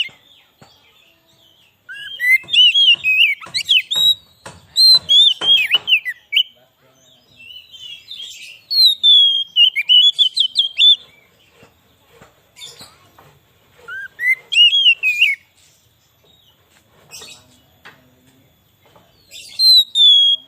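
Oriental magpie-robin (kacer) singing in four separate loud phrases of quick, varied whistled notes and slurs, with short pauses between them.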